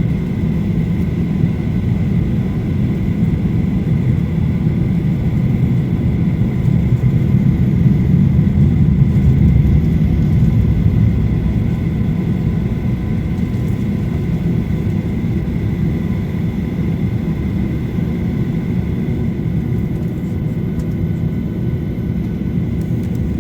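Cabin noise inside a Boeing 737-800 on the ground before takeoff: a steady low rumble with a faint steady whine from its CFM56 engines, swelling a little partway through and then easing back.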